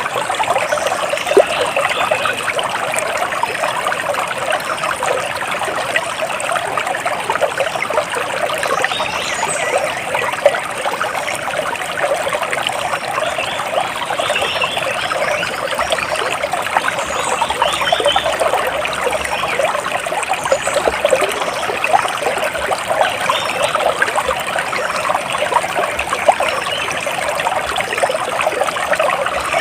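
Water trickling and splashing steadily, like a small stream running over stones, with faint bird chirps now and then.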